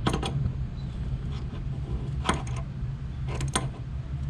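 A few sharp clicks and clinks of metal tools and fittings being handled: one right at the start, one a little after two seconds, and two close together about three and a half seconds in, over a steady low hum.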